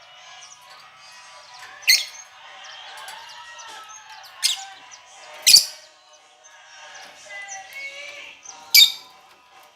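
Lovebirds calling in their cage: four sharp, piercing shrieks stand out over continuous softer chattering and warbling.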